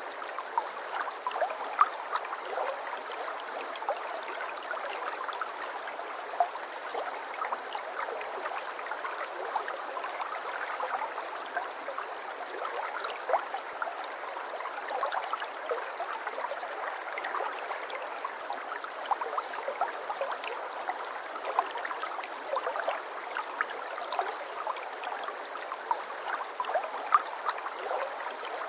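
A small brook babbling over stones: a steady rush of running water dotted with many small gurgles and splashes.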